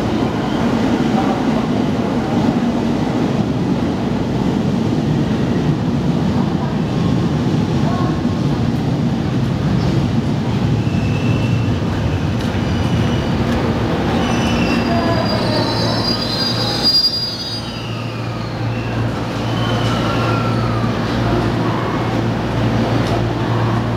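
Electric commuter train at a station platform: steady rumble, then about two-thirds of the way through a high squeal and gliding, whining motor tones, followed by a steady low hum.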